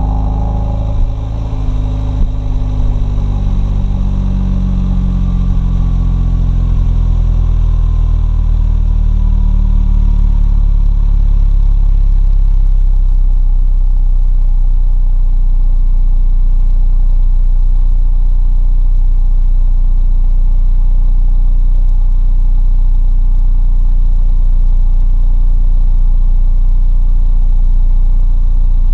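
2016 Hyundai Veloster Turbo's 1.6-litre turbocharged four-cylinder idling through its stock exhaust after a cold start. The high fast idle slowly drops over the first ten seconds or so, then settles to a steady idle.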